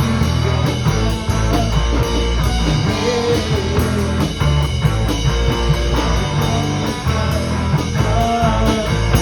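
Rock band playing an instrumental passage: electric guitar over bass, with a drum kit keeping a steady beat on the cymbals.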